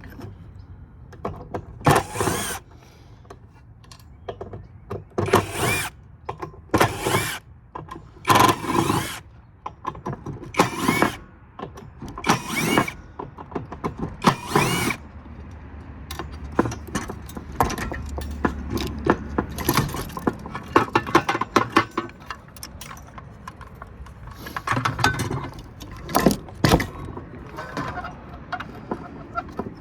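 Power drill driving out screws in a string of short trigger bursts, each about half a second long, with the motor's pitch rising and falling. Between the bursts there is clicking and rattling of metal parts.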